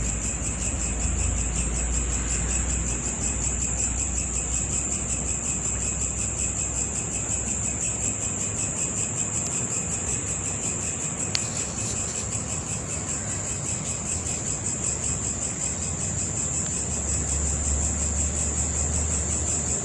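Steady, high-pitched chorus of insects trilling continuously, cricket-like, with a low hum underneath.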